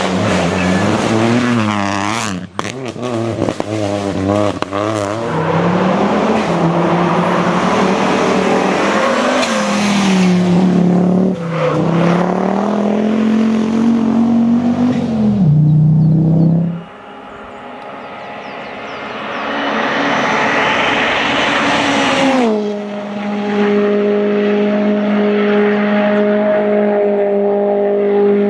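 Rally cars at full throttle. The engines rev hard, their pitch climbing and dropping with gear changes and lifts, across several short cuts. In the last few seconds one engine holds a steady high note.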